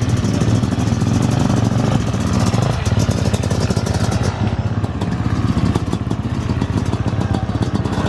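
Motocross motorcycle engine running at a fairly steady speed, a rapid even pulsing beat with no big revs.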